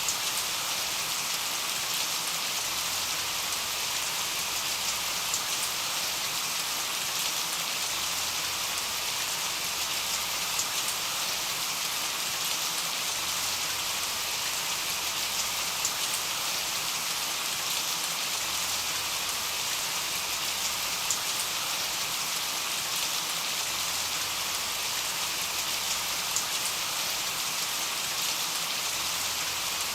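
Steady rain falling in an even hiss, with scattered individual drops ticking through it.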